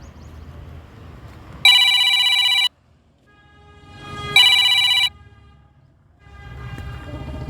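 Telephone bell ringing twice, each ring a loud trilling burst of about a second. A low rumble comes before the rings and returns near the end.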